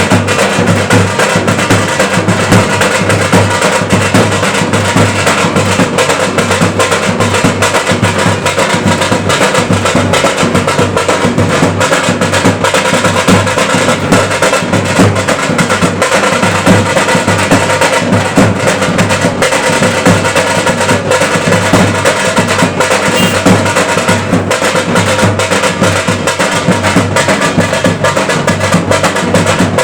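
Loud drum-heavy music: fast, dense drumming that keeps up without a break, with a sharp clacking beat on top.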